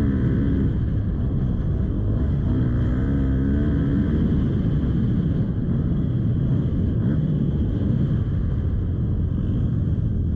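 Motocross bike engine revving, its pitch rising and falling repeatedly over a dense low rumble.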